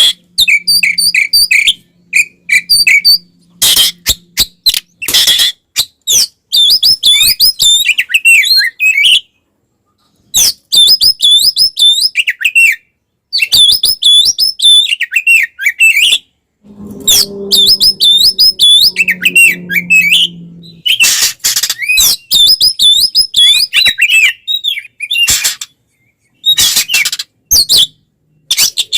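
Oriental magpie-robin singing loudly in bursts of rapid, looping whistled phrases, broken by sharp clicks and short pauses. This is the agitated, fighting-style song of a bird in full voice.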